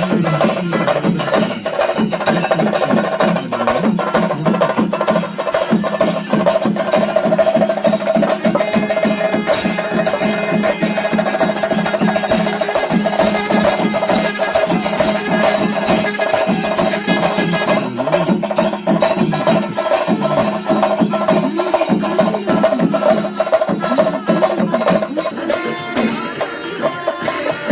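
Traditional percussion music: dense, rapid drumming and clacking with a sustained high melodic tone held over it.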